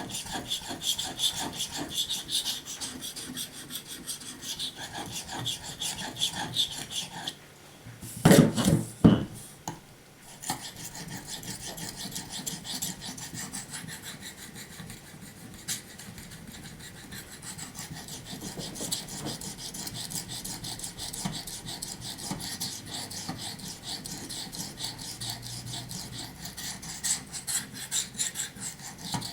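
Knife blade stroked back and forth over a 5000-grit waterstone in quick, even rasping strokes: the final polishing stage of sharpening a V edge. About seven seconds in the strokes pause for two loud knocks, then carry on.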